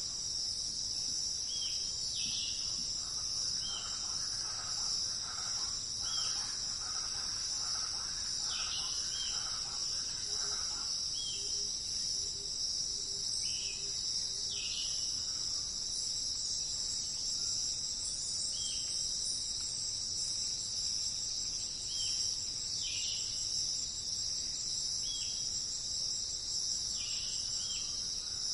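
A steady, high-pitched chorus of crickets or similar insects, over which a bird repeats a short falling note every second or two. For a few seconds in the first third, a second, lower bird call chatters alongside.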